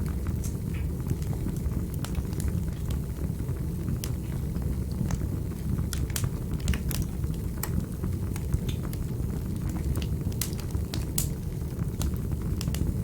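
Wood fire burning in a fireplace: a steady low rumble of flames with irregular sharp crackles and pops, several in quick clusters.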